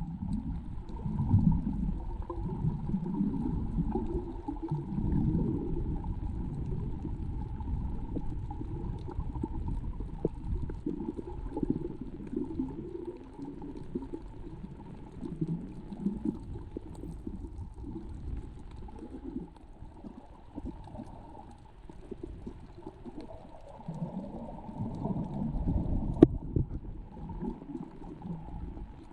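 Muffled underwater noise around a submerged camera: water moving and gurgling with an uneven low rumble and a faint steady hum.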